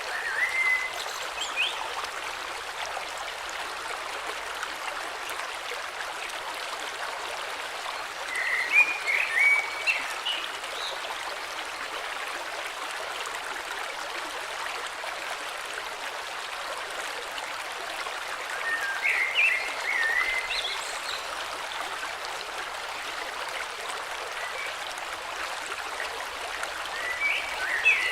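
Steady rushing of a flowing river, with a bird singing short warbling phrases four times over it.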